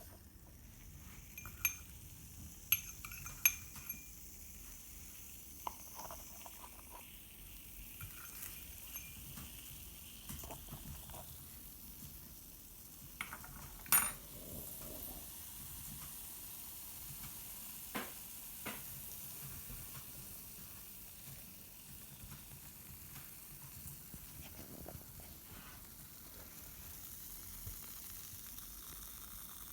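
Homemade model volcano erupting with a steady fizzing hiss. A few sharp clinks of glass or metal come in the first few seconds, with a loud one about halfway.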